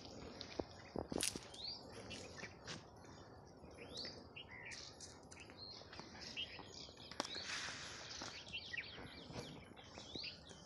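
Small birds chirping and calling over and over in short high notes that slide up and down, with a few sharp clicks about a second in.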